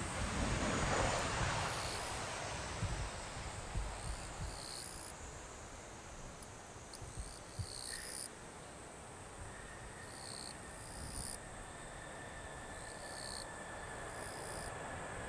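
Jet noise of a landing Boeing 737-800's CFM56 engines fading away over the first couple of seconds, leaving a low rumble. Insects chirp in short high bursts that repeat every second or so.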